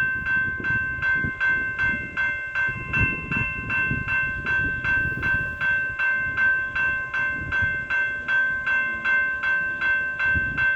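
Railway level crossing warning bell ringing in a steady, even rhythm of about three strikes a second, signalling an approaching train.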